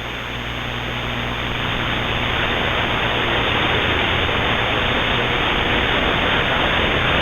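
CB radio static: a steady hiss between transmissions that slowly grows louder, over a low steady hum.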